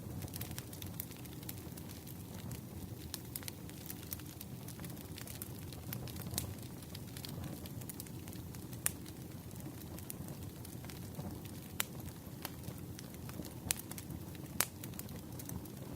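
Campfire of burning wood crackling: a steady low rush of flames with scattered sharp pops, a few louder ones near the end.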